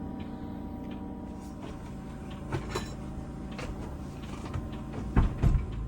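Scattered light knocks and clicks over a low steady hum, with two louder thuds close together near the end.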